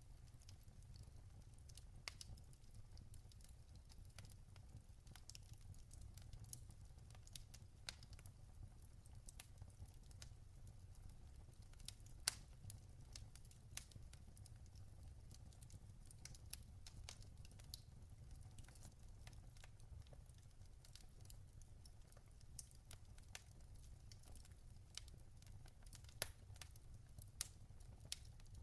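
Log fire in a fireplace crackling: irregular small pops and snaps over a low steady rumble, with one louder pop about twelve seconds in.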